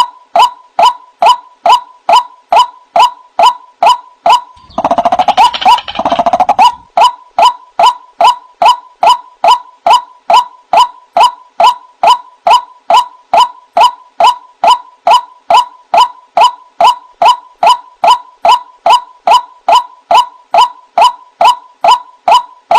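White-breasted waterhen (ruak-ruak) calling: a monotonous string of short, clipped notes, about two and a half a second. About five seconds in, a harsher, lower burst of overlapping calls lasts about two seconds before the even series resumes.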